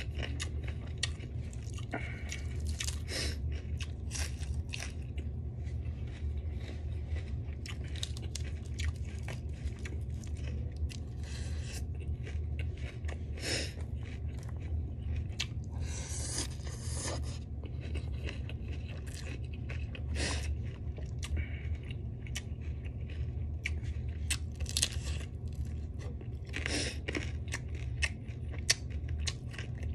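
A person chewing food close to the microphone, with wet mouth clicks and several louder crunches scattered through, over a steady low hum.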